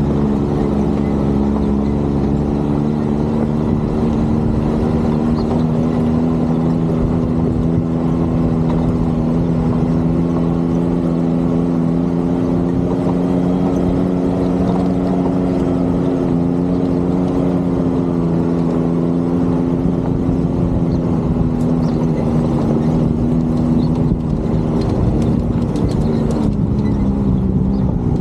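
Vehicle engine running steadily under way, its pitch holding fairly even with small dips and falling near the end.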